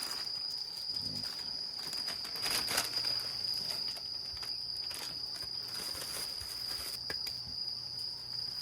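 Insects chirring in one steady, high, unbroken tone, with a few short clicks of handling and a faint low hum joining about a third of the way in.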